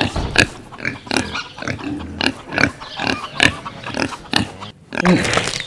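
Pigs grunting and oinking in short repeated calls, about two a second. A different sound takes over just before the end.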